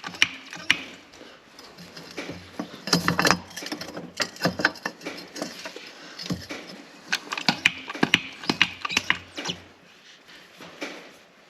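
Hand tools clicking and knocking against steel mower parts in irregular clusters, as a part is worked onto a shaft.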